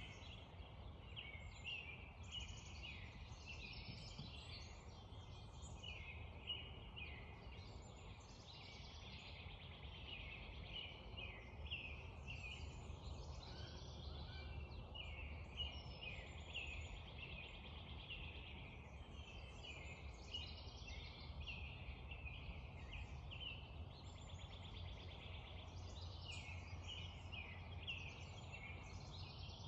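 Spring dawn chorus: many songbirds singing and chirping over one another without a break, over a steady low background rumble.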